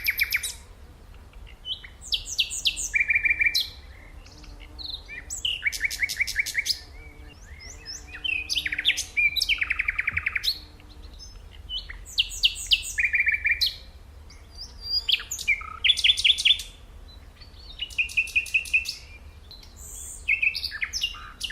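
A songbird singing: short, varied phrases of rapid high notes, each about a second long, repeated every two to three seconds.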